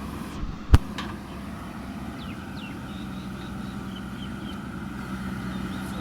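Heavy construction machinery's diesel engine running steadily at a constant speed, with a single sharp knock about three quarters of a second in.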